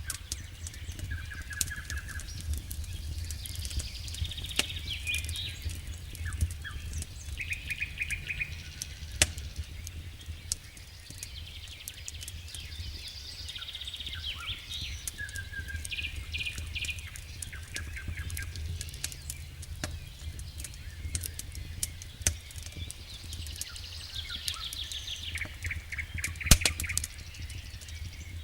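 Wood fire in a fireplace crackling, with sharp pops scattered throughout and one loud pop near the end, over a steady low rumble. Repeated high chirping trills come and go over it.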